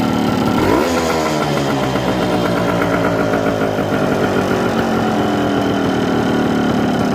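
Yamaha AG175 two-stroke single-cylinder engine idling, given one quick blip of throttle just before the first second, after which the revs sink slowly back toward idle over several seconds.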